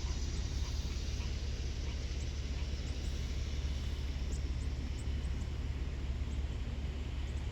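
Steady rushing of floodwater over a flooded park, heard with a constant low hum underneath. A few short, high chirps come through over the rush.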